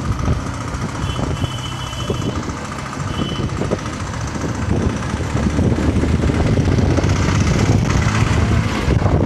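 Yamaha FZ-S V3 motorcycle's 149 cc single-cylinder engine running under way, growing louder from about halfway through with rising wind rush on the microphone. Two short high tones sound early on.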